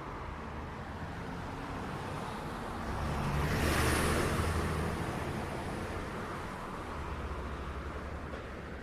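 City street traffic: a steady rumble of engines and tyres. One vehicle passes close by about four seconds in, its noise swelling and then fading.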